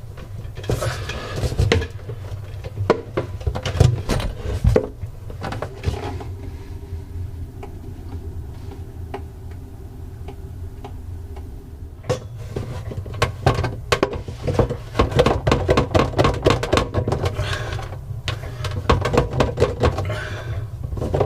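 Clicks, knocks and rattles of a sink drain and its hose being handled and fitted. They come in two busy stretches with a quieter spell in between, over a steady low hum.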